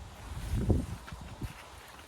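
Footsteps on a leaf-covered forest floor: a heavy low thud just before the middle and a lighter one about three quarters of the way through, over a faint outdoor hiss.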